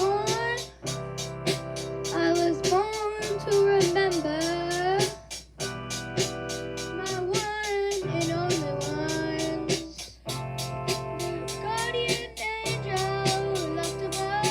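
A song: young boys singing a melody in phrases over sustained keyboard chords and a steady, quick beat.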